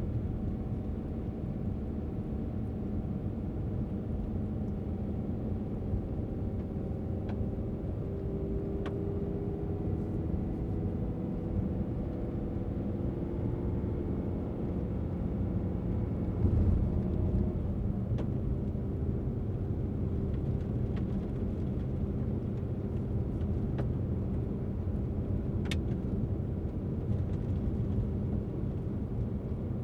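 A car driving on a road: steady low rumble of engine and tyre noise with a faint hum, briefly louder about halfway through, with a few faint clicks.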